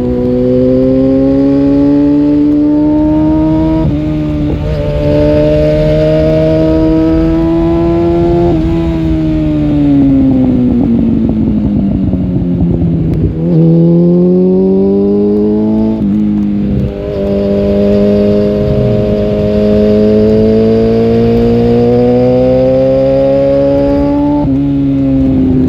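Suzuki GSF 650 Bandit's inline-four engine, restricted to 35 kW, through a Dominator oval exhaust with the dB-killer removed, pulling up through the gears with shifts a few seconds in and again around eight seconds. It then slows on engine braking, picks up sharply just past the middle and pulls steadily again, shifting once more near the end.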